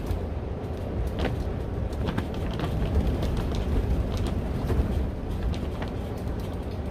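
High wind buffeting a cattle panel greenhouse: a steady, gusting low rumble of wind, with scattered sharp snaps and taps from the structure and its covering.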